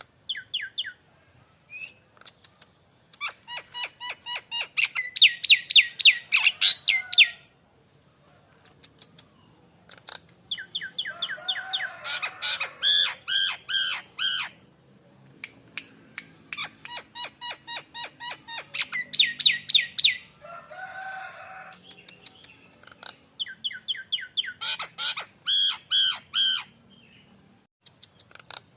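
Nias hill myna calling in four bouts of rapid, evenly repeated notes, each bout lasting a few seconds with short pauses between.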